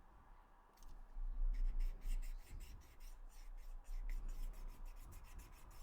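Rapid, irregular scrubbing strokes rubbing against the plastic of a PS4 controller as caked grime is cleaned off. The strokes begin about a second in.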